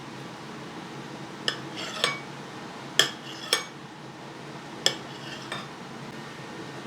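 Cutlery clinking against a plate: about six sharp, ringing clinks in pairs, over a steady background hum.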